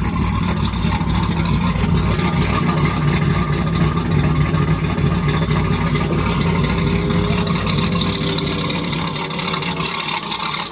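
Turbocharged gas V8 of a GMC Sierra pickup running loud and steady. The low rumble drops away near the end.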